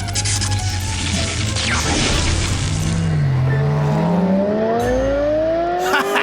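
Cartoon soundtrack: background music, a sharp swoosh about two seconds in, then a long smooth rising whine from about three seconds in, as the music drops away, ending in a hit near the end.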